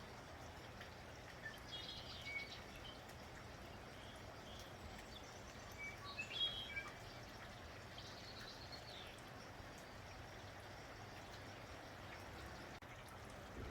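Steady light rain hiss with small birds chirping over it in a few short bursts, the loudest about six seconds in.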